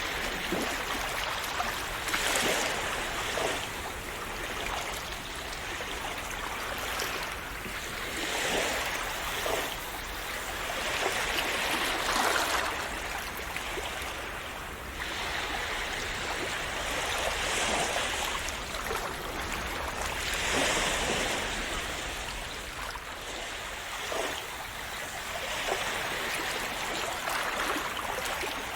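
Calm sea waves splashing and washing on a shore in a continuous rush of water, swelling and easing every few seconds.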